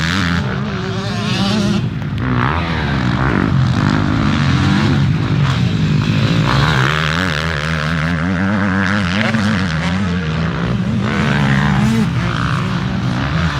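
Motocross dirt bike engines revving up and easing off over and over as they ride the track.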